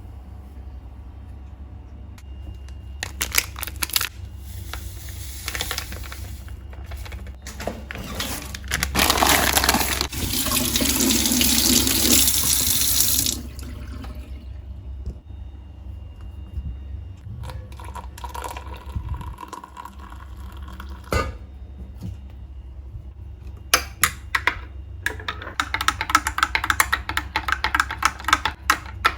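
A water tap running into a sink for about five seconds, with scattered knocks and clinks of things being handled before it, and a busier stretch of clattering near the end.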